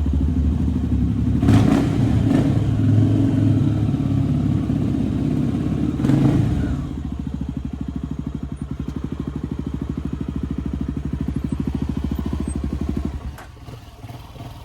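Dirt bike engine running, with two short blips of the throttle about a second and a half and six seconds in, then settling to a steady, even lope before the sound drops away sharply near the end.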